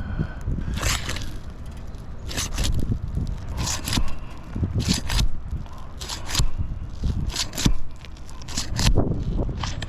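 Asphalt shingle being pried up from its seal: a run of short, irregular scrapes and crackles as the tightly stuck adhesive strip pulls loose. The sealant holds so firmly that the shingle's thin mat tears instead of releasing.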